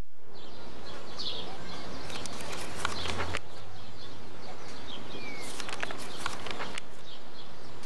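Summer garden ambience of birds chirping and insects, with two spells of crackly rustling, one about two to three seconds in and another around five and a half to seven seconds in.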